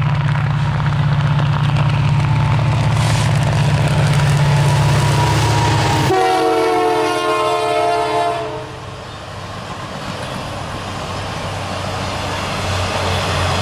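Canadian Pacific diesel locomotive on the Holiday Train: a loud, steady engine drone as it approaches. About six seconds in, a long chord from its horn sounds for about two and a half seconds, sliding down in pitch as it goes by. The lit passenger and box cars then roll past with a quieter, even rumble.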